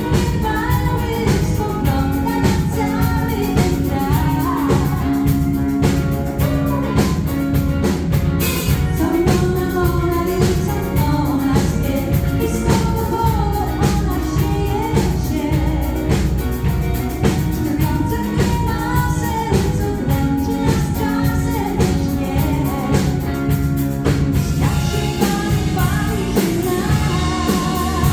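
Live pop band with drum kit playing a song while a woman sings the lead vocal.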